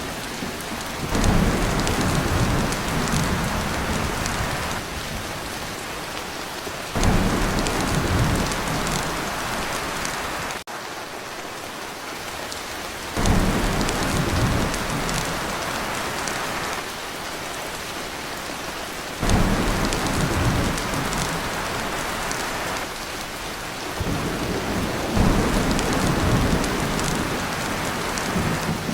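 Torrential rain drumming on a tin roof, with thunder rumbling in about every six seconds, each roll starting suddenly.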